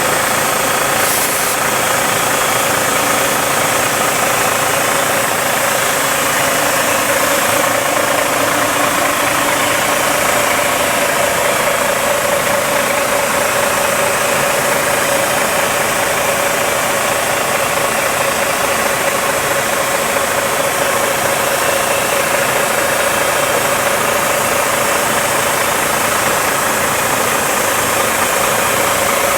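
Iveco/Astra 8x8 truck idling steadily under a constant hiss while its central tire inflation system lets air out of the tires to lower the pressure.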